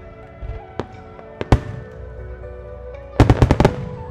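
Aerial firework shells bursting over music with long held notes. There is a fainter bang just under a second in and a sharp bang about a second and a half in, then a rapid volley of about six bangs just after three seconds, which is the loudest part.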